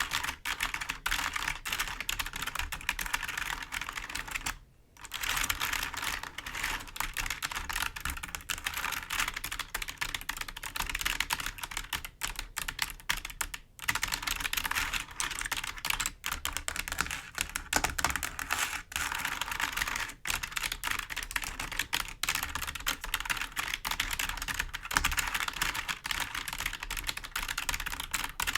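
Fingers tapping and scratching on a computer keyboard's keys: a dense, continuous run of clicks mixed with scratchy rustle, broken by brief pauses about five and fourteen seconds in.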